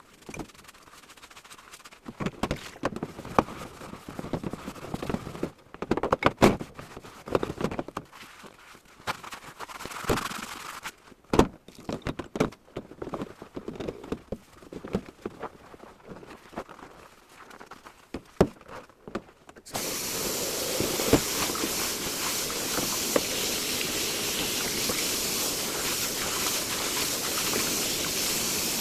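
Dishes handled and set down in a kitchen sink, with scattered clinks and knocks, then a tap turned on about two-thirds of the way through, running steadily.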